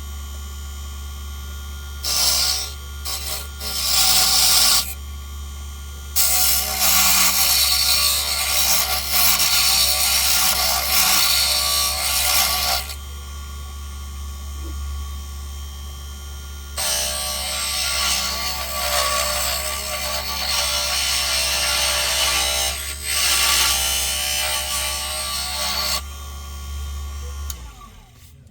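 Small wood lathe motor running with a steady hum while a tool is held against the spinning pine lure blank in three long passes, each a loud cutting noise. Near the end the lathe is switched off and the hum winds down.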